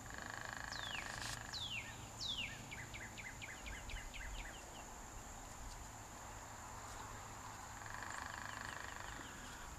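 A songbird singing outdoors: three clear whistles sliding down in pitch, then a quick run of short down-slurred notes that slows and fades. Behind it a steady high-pitched insect drone, with a buzzy insect trill near the start and again near the end.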